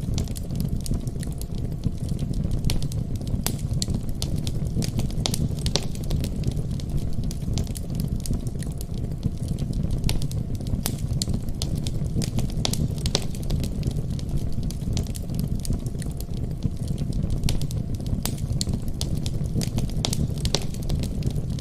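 Wood fire burning in a fireplace: frequent irregular sharp crackles and pops over a steady low rumble.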